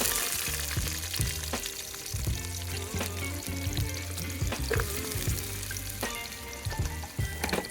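Food frying in hot oil in a cooking pot, a steady sizzle that began just before, with scattered clicks of a utensil stirring.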